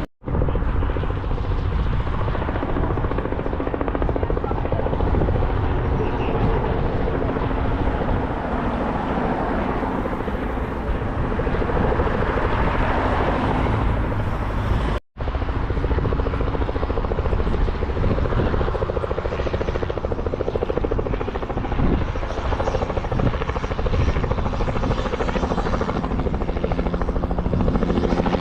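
Helicopter engine and rotors running steadily, heard from inside the cabin as a loud, constant drone with a low rumble and a few steady tones. The sound cuts out for a split second twice, just after the start and about halfway.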